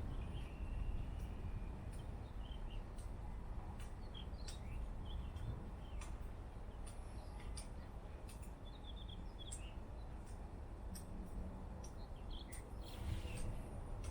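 Scattered short bird chirps over a steady low rumbling background noise.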